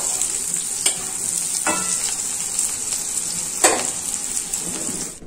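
Bitter gourd and egg fritters sizzling steadily in hot mustard oil in a metal kadai, with three sharp clinks of a metal spatula against the pan as the fried fritters are lifted out.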